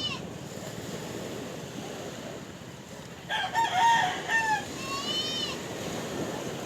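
Sea surf washing steadily, with a rooster crowing once about three seconds in, the loudest sound here. A shorter arching animal call follows just after.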